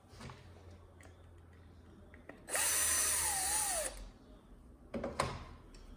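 Power drill-driver running for about a second and a half, its motor pitch dipping and rising under load as it drives a screw. Short clicks and knocks of handling the plastic parts come before and after.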